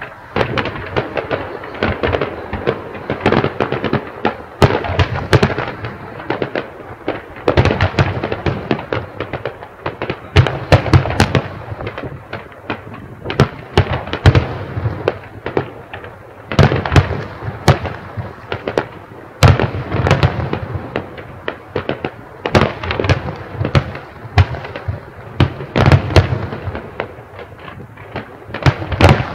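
Fireworks display heard in the open air: a dense run of bangs and crackling, with clusters of louder booms every few seconds.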